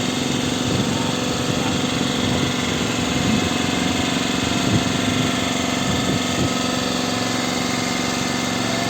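A boat engine running steadily, with faint voices behind it.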